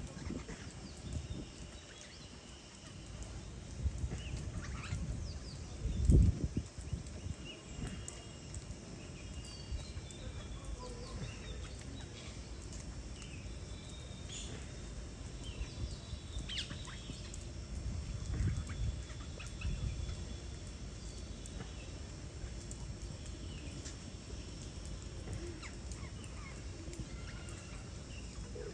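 Birds chirping with many short, scattered calls over a low outdoor rumble, and a loud low thump about six seconds in.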